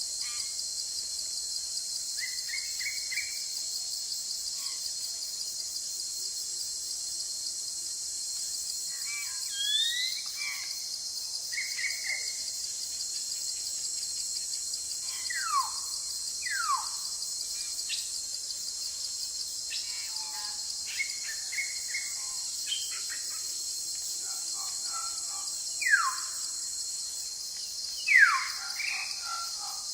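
Forest ambience: a steady high-pitched insect drone, with birds calling over it in scattered chirps and several clear whistles that slide downward in pitch, the loudest of them in the last few seconds.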